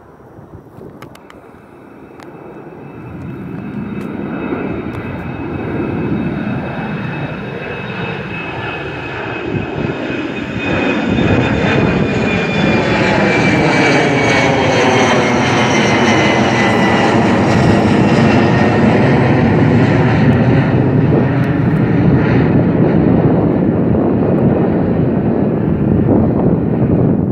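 Jet airliner departing. Its engine noise swells over about ten seconds to a loud, steady level, and a high whine slowly falls in pitch as the plane passes.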